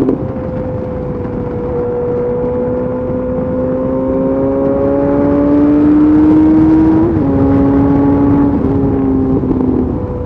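Yamaha FZ8's inline-four through a LeoVince aftermarket exhaust with the dB killer removed, pulling steadily with the engine note slowly rising, then dropping sharply at an upshift about seven seconds in and again near the end.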